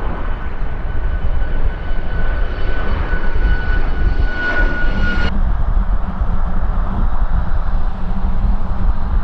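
Jet airliner engines running loud, a deep rumble under a steady high whine. About five seconds in, the whine cuts off abruptly and the deep rumble carries on.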